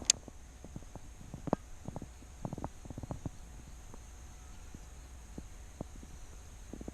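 Scattered light knocks and clicks over a low, steady rumble, with one sharp click just after the start and a short cluster of knocks in the middle.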